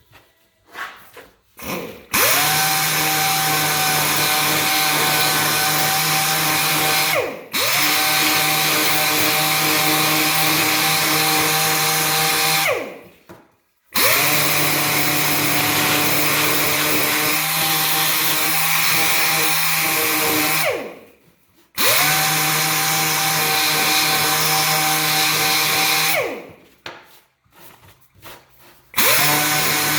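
Electric power sander sanding a wooden part, run in bursts of about five seconds. Each burst spins up quickly to a steady whine with a hiss of abrasive on wood, and winds down with falling pitch between passes.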